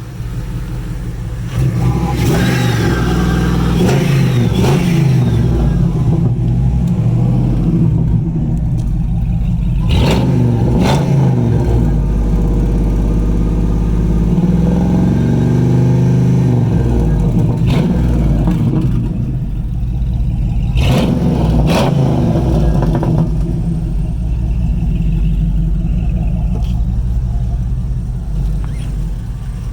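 ProCharger-supercharged 5.9-litre V8 of a 2000 Dodge Dakota R/T running through its exhaust, with the revs rising and falling around the middle and a few sharp blips.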